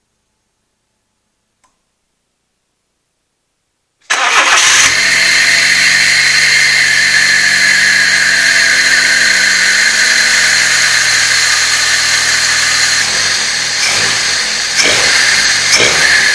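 Fiat 600 Sporting's 1.1-litre four-cylinder petrol engine starting about four seconds in and settling into a steady idle, on its first start after the throttle body and MAF sensor were cleaned, with the ECU relearning the throttle position and adjusting the idle. Near the end the throttle is opened by hand for a few short revs.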